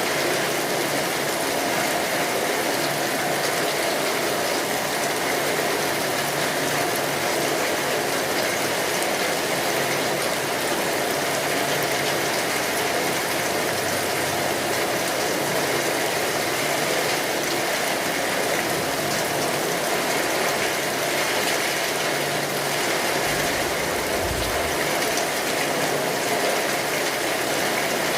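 Steady rain drumming on a tin roof, mixed with the close crackle and snapping of a wood fire. A brief low rumble comes in late on.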